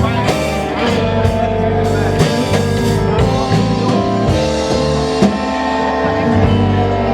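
A live blues band playing, with drums and guitar.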